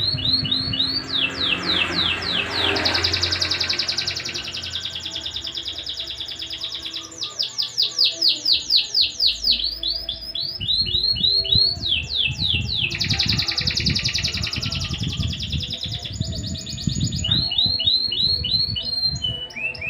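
Domestic canary singing a long, continuous song: fast rattling trills and runs of repeated downward-sweeping notes, changing phrase every second or two. A low irregular rumble sits underneath from about halfway through.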